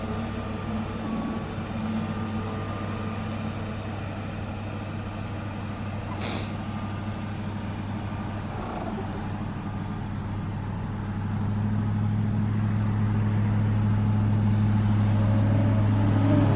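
A news live truck's engine running with a steady low hum that grows louder about eleven seconds in. A short hiss comes about six seconds in, with a fainter one shortly after.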